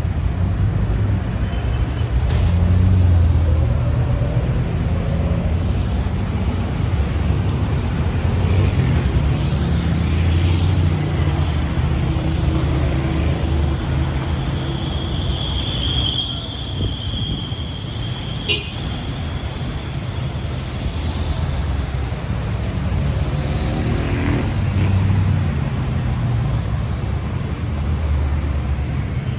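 City street traffic: a steady rumble of car engines and tyres passing, swelling and easing as vehicles go by. A brief high squeal sounds about halfway through, followed shortly by a sharp click.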